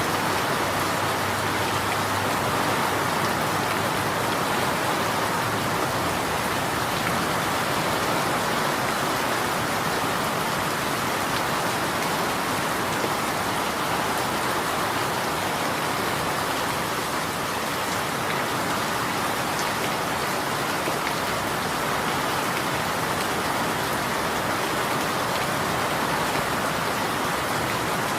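Steady rain falling on a surface, an even continuous hiss of many drops.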